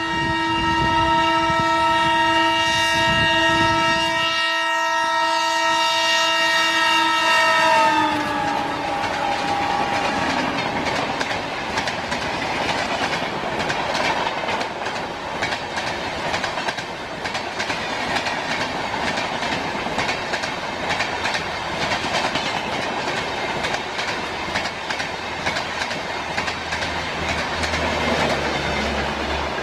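Train horn blaring for about eight seconds, its pitch dropping as the locomotive passes. Then the steady rumble and clickety-clack of the train's wagons running by on the rails.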